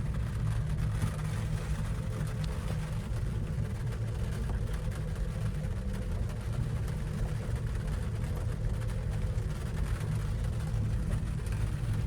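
Steady low rumble inside a gondola cabin riding up its cable, with a faint steady hum above it.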